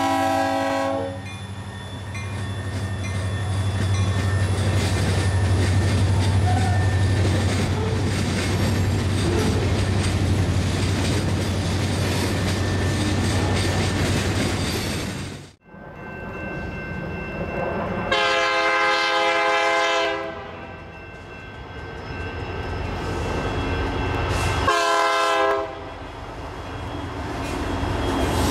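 A freight train's locomotive horn cuts off about a second in. Then the train rolls past the crossing, with a steady low locomotive rumble and wheel noise from the freight cars. After a sudden cut, a Union Pacific locomotive's multi-chime air horn sounds two blasts: a long one of about two seconds, then a short one.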